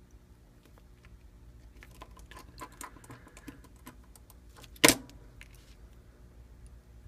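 Small clicks and light metallic rattling of tools and phone parts being handled during phone reassembly, then one sharp, loud clack about five seconds in.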